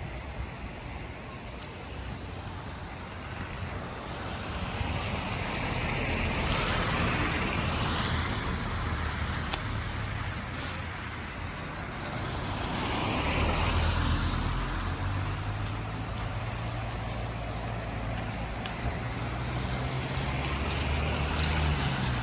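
Road traffic: two vehicles drive past, one swelling and fading about a third of the way in and another just past halfway. A low engine drone carries on after the second pass.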